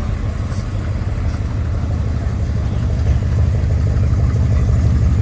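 A car engine idling with a deep, steady rumble that grows gradually louder.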